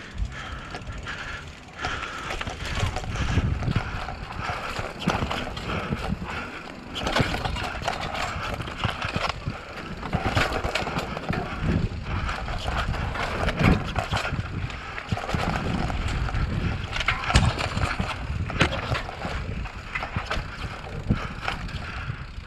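Downhill mountain bike riding fast over a rocky trail: a steady clatter of rock impacts, chain and frame rattle, and tyres on dirt and stone.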